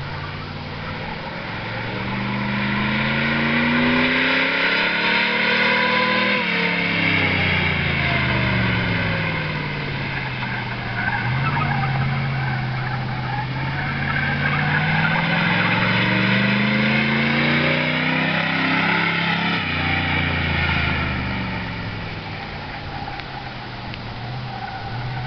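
Pontiac Grand Prix enduro race car engine being driven hard on an oval: it climbs in pitch under throttle, drops suddenly about six seconds in, eases down, then climbs again and drops suddenly once more near the end.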